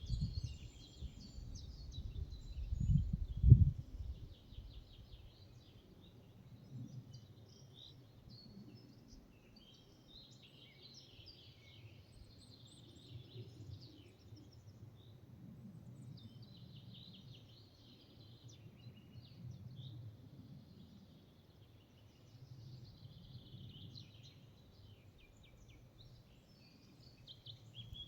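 Forest birdsong: several small birds singing and calling with short chirps and trills. A low rumble swells in the first few seconds, loudest about three seconds in, then fades to a faint background.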